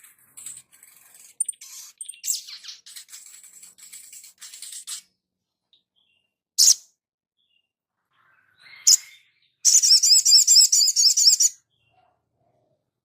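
Small sunbird-family songbirds calling: a run of thin, high chirps and twitters, then two sharp single calls, then a loud, fast warbling trill of about two seconds near the end.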